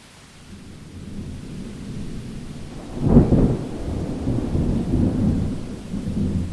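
Thunderclap during a rainstorm: a low rumble builds, then a sharp crack about three seconds in, followed by rolling rumbles. Steady rain hiss runs underneath.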